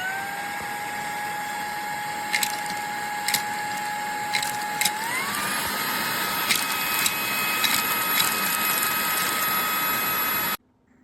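Fanttik Slim V8 Apex handheld vacuum switched on, its motor spinning up to a steady high whine, then stepping up to a faster, higher-pitched speed about five seconds in, with a few sharp clicks, before it is switched off and cuts out suddenly near the end.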